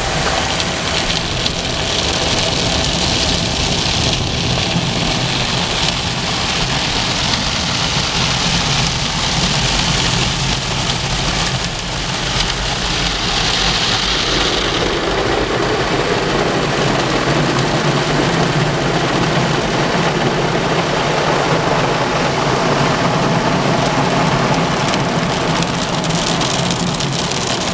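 Automatic car wash's rotating brushes scrubbing over the car, with a steady hiss of spraying water over a low machine hum.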